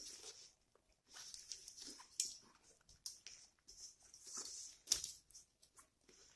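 Iron wire being pulled out and handled by hand: irregular rustling scrapes and sharp metallic clicks, the loudest about two and five seconds in.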